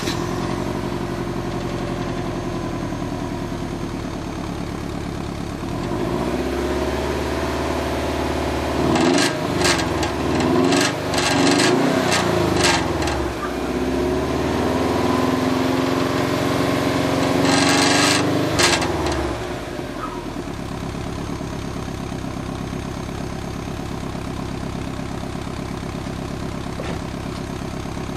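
Subaru Forester's flat-four boxer engine with unequal-length headers, heard through an HKS wagon muffler that is close to failing. It idles, then is revved: the pitch rises about six seconds in, several quick blips follow, a higher speed is held, and it drops back to idle about twenty seconds in.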